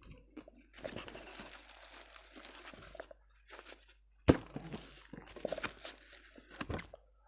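Close-up eating noises of someone chewing crispy fried chicken: crunching and rustling, then a sharp click a little past the middle and scattered smaller crunches.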